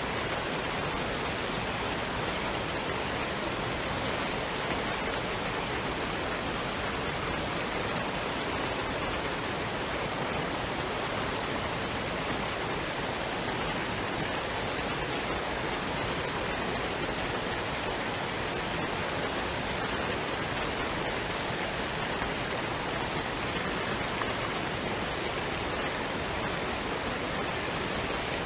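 Waterfall and stream water running in a steady, even rush.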